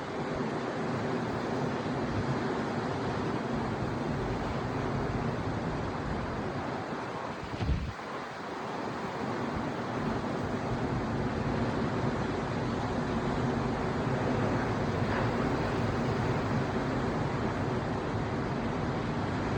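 Sea waves washing steadily, with wind on the microphone; a gust buffets the microphone once, about eight seconds in.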